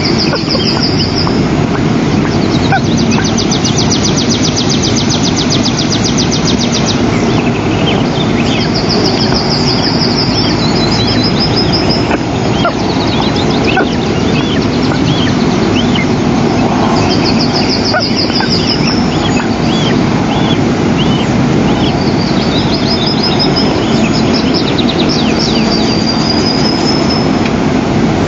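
Steady wind rushing on an outdoor microphone, with high, fast trilling bird calls every few seconds and short thin chirps between them.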